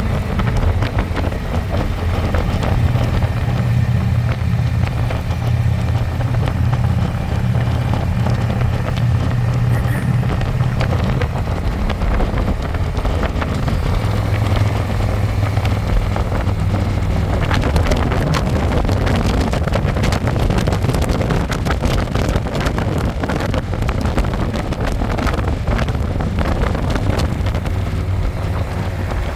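Harley-Davidson Electra Glide's V-twin engine running steadily under way, heard from the pillion seat with wind rushing over the microphone. The engine note drops a little about twelve seconds in, and the wind noise grows rougher in the second half.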